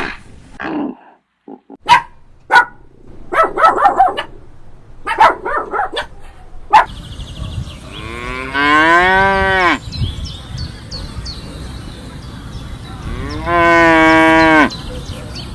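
A cow mooing twice, two long calls a few seconds apart: the first rises and then falls in pitch, the second holds level. Before them come several short, sharp sounds and brief calls.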